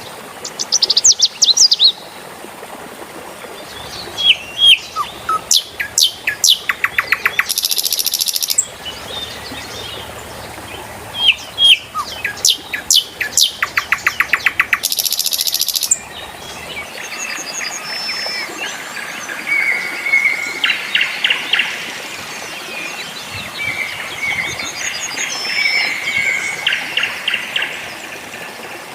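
Birds singing and calling in rapid repeated notes over a steady trickle of running water. The loudest phrases come in the first half; from about halfway on the chirping is softer.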